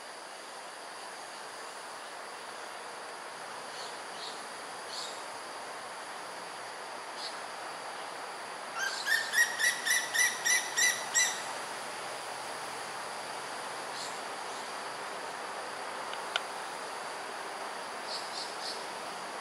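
A bird calling a quick series of about nine ringing notes, a little under four a second, over a steady high insect drone, with a few faint scattered chirps.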